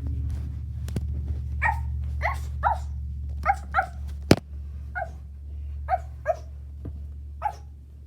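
A child imitating a small dog, giving about a dozen short, high yapping barks, each falling slightly in pitch, spaced about half a second apart.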